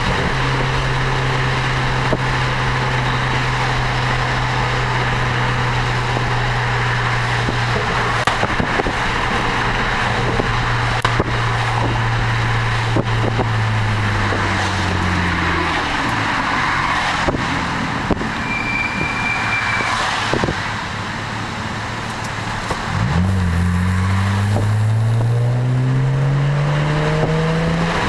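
BMW 335i's turbocharged inline-six running through an Eisenmann Race exhaust at a steady cruise, a constant drone. About halfway through, the note falls away as the car slows and stays quieter for several seconds. Near the end it climbs again steadily as the car accelerates.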